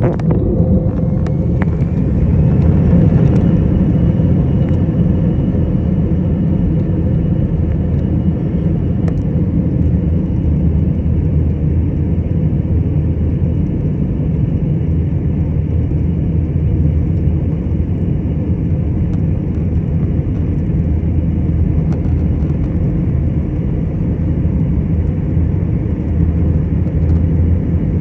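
Jet airliner's engines spooling up for takeoff: a whine that rises in pitch over the first few seconds, then holds steady at takeoff thrust over a loud, steady rumble.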